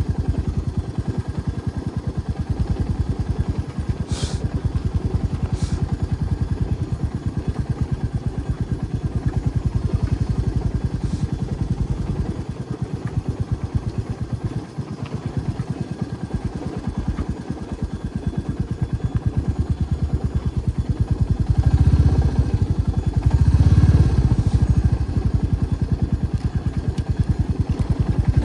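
Motorcycle engine running steadily while riding, its firing pulses close and even throughout, with two louder low surges near the end.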